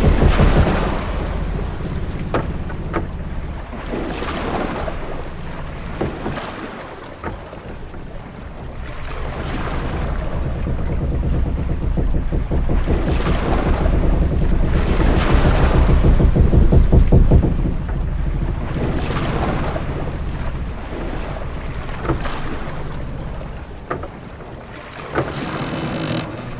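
Ship-at-sea ambience: waves rushing against a hull and wind. The wash swells to a peak about two-thirds of the way through, then eases, over a low rumble. A few short, sharp knocks sound now and then.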